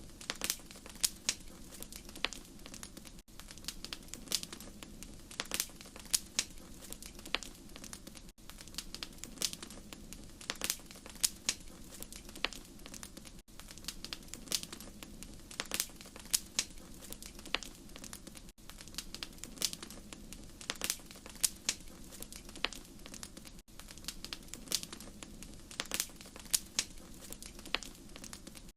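Wood fire crackling: irregular sharp pops and snaps over a low steady rumble. There is a brief dropout about every five seconds.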